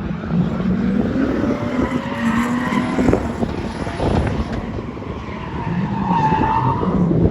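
Drift car engine revving up and down while its tyres squeal and skid through a slide.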